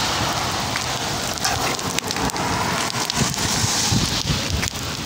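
Rain falling steadily on a wet asphalt road, with many small sharp ticks of drops striking the surface.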